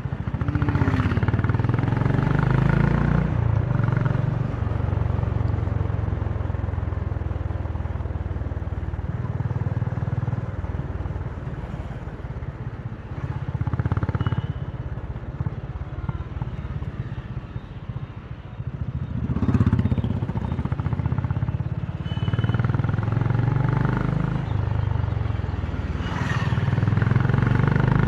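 Honda CB350's single-cylinder engine and exhaust while riding, the rider opening the throttle and easing off several times, with the exhaust note swelling and falling back.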